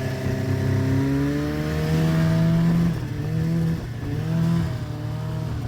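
Carbureted snowmobile engine revving. Its pitch climbs steadily for a couple of seconds, then rises and falls about three times as the throttle is worked.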